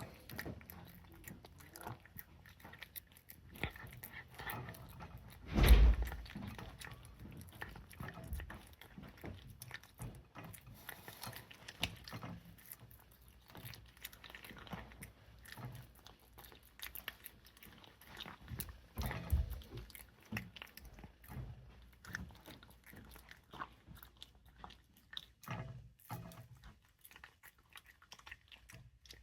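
A cat chewing and crunching its food, a long run of small, irregular crunches and bites. There is a loud thump about six seconds in and a smaller one about two-thirds of the way through.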